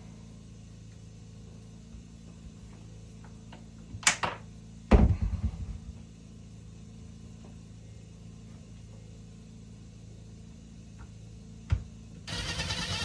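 A pair of sharp knocks, then a heavy thump about a second later, and a single knock near the end, over a steady low hum; a louder sound starts just before the end.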